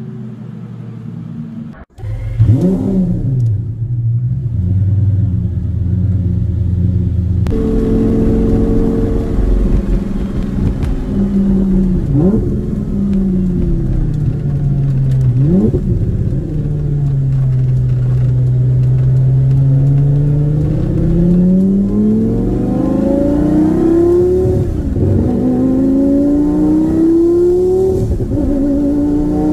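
Twin-turbocharged Lamborghini Gallardo V10 engine running, blipped in short sharp revs several times. It then pulls up through the revs in a long, slowly rising climb near the end as the car accelerates. The sound jumps abruptly twice early on where separate takes are cut together.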